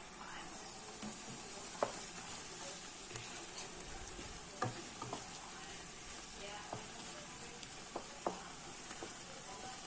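Onion, garlic and spices frying in oil in a pan, with a steady sizzle. A utensil stirring the mixture makes scattered clicks against the pan about half a dozen times.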